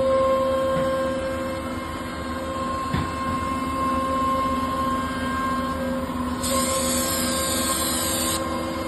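CNC router spindle running with a steady whine while carving a wooden cabinet door. A single click comes about three seconds in, and a higher, wavering cutting noise joins for about two seconds near the end.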